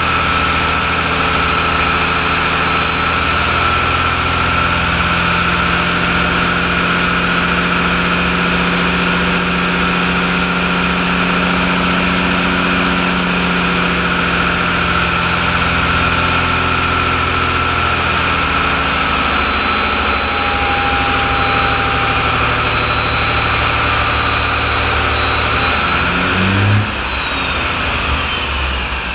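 Caterpillar 3406E inline-six turbo diesel truck engine running steadily on a dynamometer, with a steady high whine over the engine note. Near the end it drops off and the whine slides down in pitch as the engine slows.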